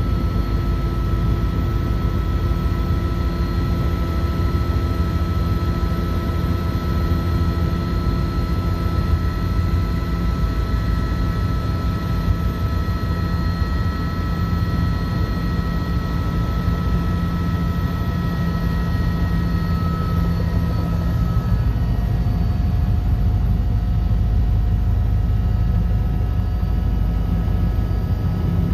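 Helicopter in flight: a steady, loud mix of low rotor noise and the high whine of the turbine engine. About three-quarters of the way through, the whine's tones shift slightly.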